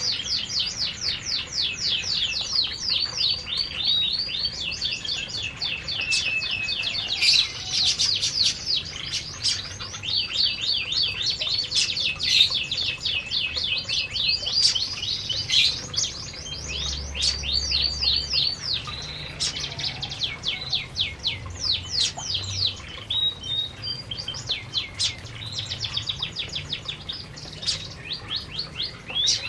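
Canaries singing and chirping, rapid runs of short, quickly repeated notes, several a second, going on almost without pause.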